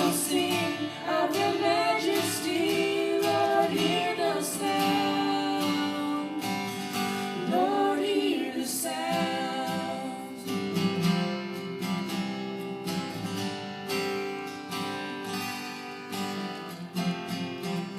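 Two children singing along with a strummed acoustic guitar; the voices drop out about halfway through, leaving the guitar playing on.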